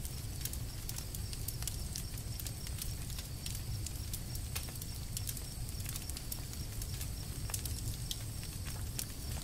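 Campfire burning and crackling: an irregular scatter of small sharp pops over a steady low rumble.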